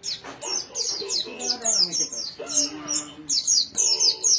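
Pleci (white-eye) singing a fast, busy chirping song: a rapid string of short, high, downward-sweeping notes, several per second.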